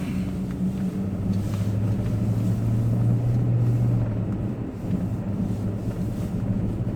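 Four-wheel-drive vehicle's engine running under load as it drives on a snow-packed road, a steady low drone heard from inside the cab. The engine note builds over the first few seconds and eases off about four seconds in.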